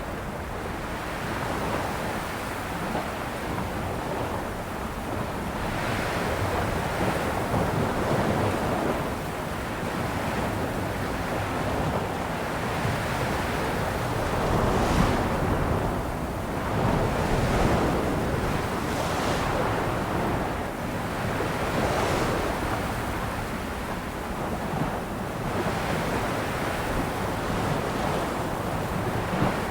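Sea waves breaking and washing on a shore, swelling and easing every few seconds, with some wind noise on the microphone.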